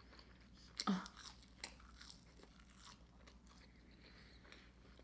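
Close-miked chewing of McDonald's french fries, faint soft crunches and mouth clicks, with one short hum of the voice about a second in.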